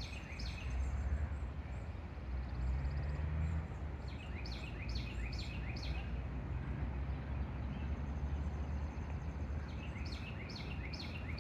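Outdoor ambience: a steady low rumble and hiss, with a small bird chirping in two short runs of three or four quick chirps, about four and a half seconds in and again near the end.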